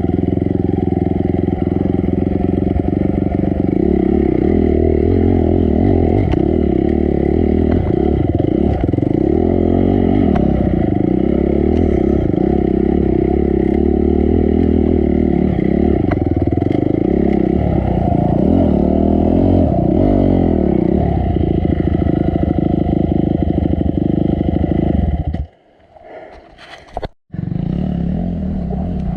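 Dirt bike engine running hard on a trail, its revs wavering up and down as the throttle is worked, with some clatter. Near the end the sound cuts off abruptly for about two seconds, then the engine comes back quieter.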